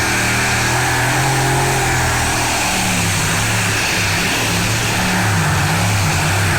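Competition pulling tractor's engine running flat out under load, a loud, steady drone whose pitch wavers slightly.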